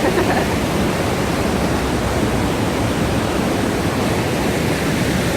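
Steady rushing noise, even throughout, of the kind made by fast-flowing water or by wind on the microphone.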